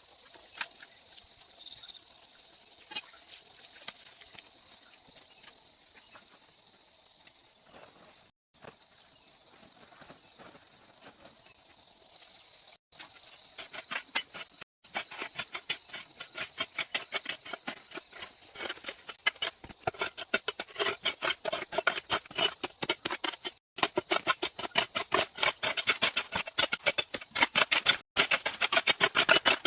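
Steady high-pitched insect drone, with rapid repeated tapping or knocking from about halfway that grows louder toward the end. A few very brief dropouts break it up.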